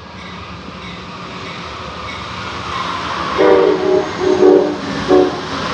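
Approaching train rumbling louder and louder, then its locomotive horn sounding a chord in several blasts, the first ones longer and a short one near the end.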